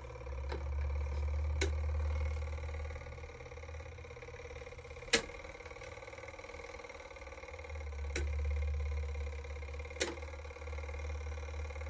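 Electric fan running with a steady hum, its airflow rumbling on the microphone and swelling twice as it sweeps past. A few sharp clicks come through, the loudest about five seconds in.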